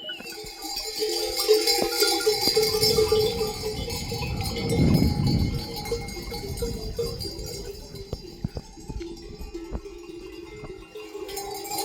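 Livestock bells on a flock of sheep and goats clinking and ringing steadily, with a low rumble about five seconds in.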